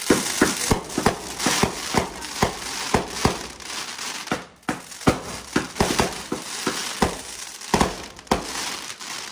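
Consumer fireworks cake firing: a rapid string of sharp reports, about three a second, over dense crackling.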